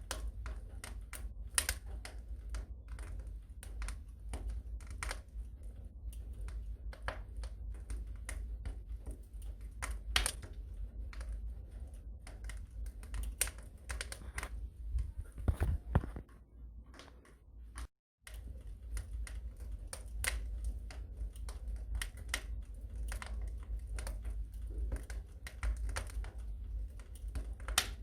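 Wood fire crackling in a fireplace: irregular sharp pops and snaps over a low steady rumble of the flames. The sound cuts out completely for a moment about 18 seconds in.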